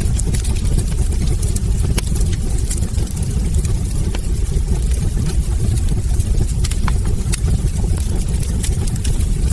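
Wood logs burning in a fireplace: a steady low rumble of the flames with frequent sharp crackles and a few louder pops.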